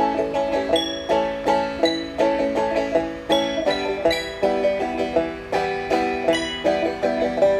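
Acoustic banjo picked in a steady, even rhythm, about two plucked notes a second, each ringing and dying away; instrumental, with no singing.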